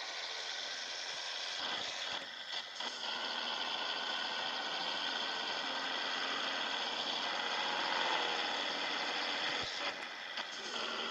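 Scania 111 truck's diesel engine running steadily, with a few short rattles and clicks about two seconds in and near the end.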